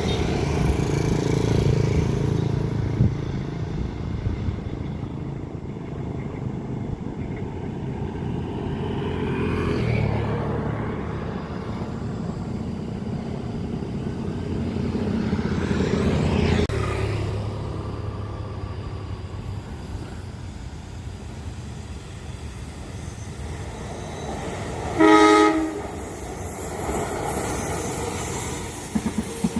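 A train horn sounds once, briefly, about 25 seconds in, over a steady rumble in which something passes by twice, loudest around 10 and 16 seconds.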